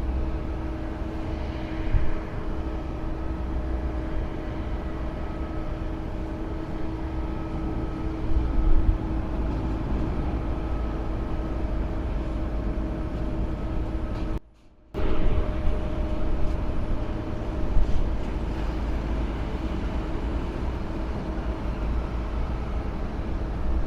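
Steady airport ambience: a constant mechanical hum with a couple of fixed tones over a low rumble, with a few brief louder swells. The sound cuts out for about half a second midway.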